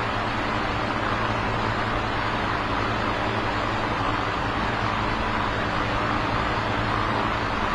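Electric fan running steadily, its airflow blowing like wind, with a low, even motor hum underneath.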